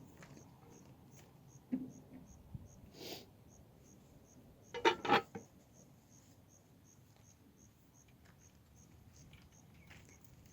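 Insect chirping steadily, about three short high chirps a second. A few knocks, and a louder double clatter about five seconds in.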